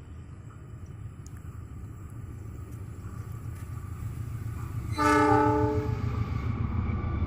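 Approaching diesel-hauled passenger train, the KAI Argo Semeru, its low rumble growing steadily louder, with one horn blast about five seconds in that lasts about a second.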